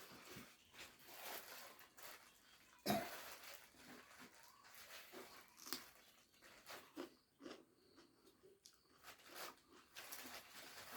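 A person chewing and crunching food, with irregular short crackles and mouth sounds and one sharper, louder crunch about three seconds in.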